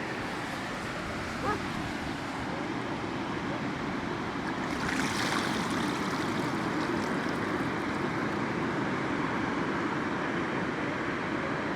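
Pacific Ocean surf washing onto a sandy beach: a steady rushing wash, with a wave breaking louder about five seconds in.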